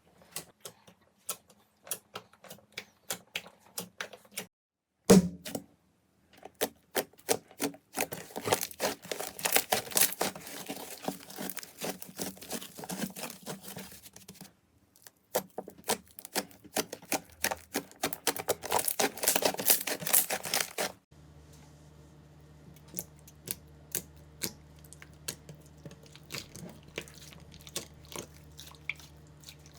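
Slime being pressed and worked by hand, giving rapid sharp clicks and crackling pops. It comes in several short clips that cut off suddenly, with a low steady hum under the last one.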